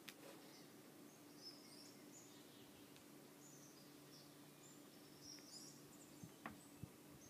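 Faint, near-silent lakeside morning ambience: scattered high-pitched bird chirps over a low steady hum, with a few soft clicks near the end.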